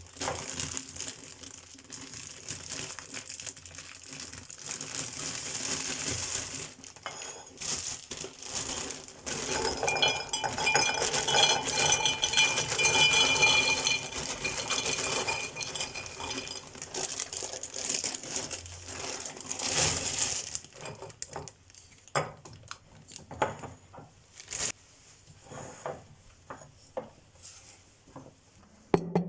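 Groceries being handled in a kitchen: plastic packaging crinkling and rustling while items clink and knock as they are set down. The sound is busiest through the middle, then thins to scattered knocks near the end.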